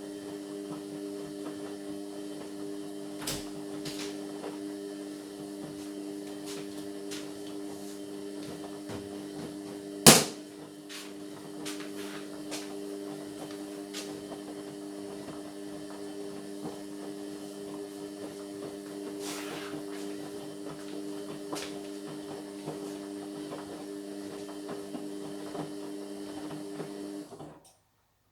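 Indesit MyTime washing machine running partway through a cotton 60 cycle: a steady motor hum with scattered clicks and one sharp knock about ten seconds in. The hum cuts off suddenly near the end.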